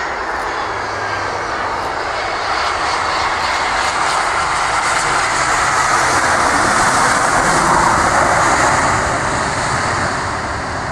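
Airbus A320-200 jet airliner on its landing, with a steady rushing engine noise that swells to a peak about eight seconds in and then fades.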